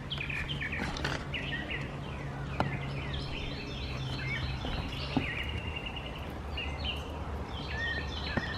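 Several small birds chirping and singing at once, with quick rapid trills among the calls, over a low steady hum that fades out about five seconds in.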